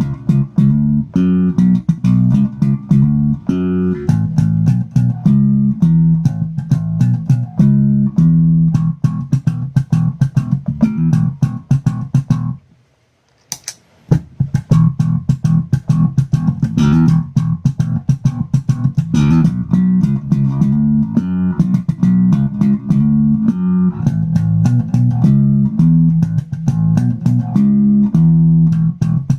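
Electric bass guitar played through a Hikari compressor pedal: a repeating line of plucked notes at a steady level. The notes stop for about a second and a half near the middle, and pick up again after a sharp click.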